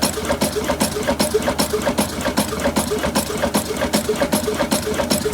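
Old stationary diesel engine of a chakki flour mill running steadily, with an even beat of about five strokes a second.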